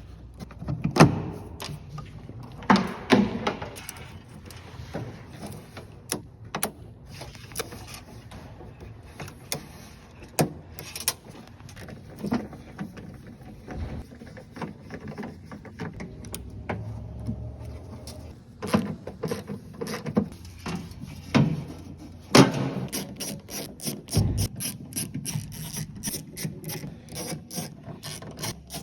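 Metal clicks and knocks of a new handle, latch rods and clips being fitted into a Chevy/GMC truck tailgate, with a ratchet wrench clicking rapidly in the last several seconds as the bolts are run in.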